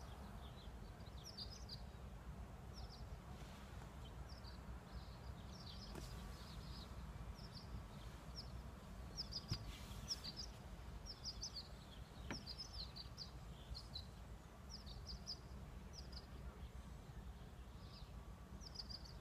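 Songbirds chirping and twittering in many short, high notes, faint over a steady low rumble, with a few soft clicks.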